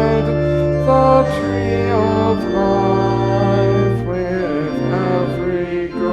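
Church organ playing sustained hymn chords, the bass moving every second or so, with voices singing along.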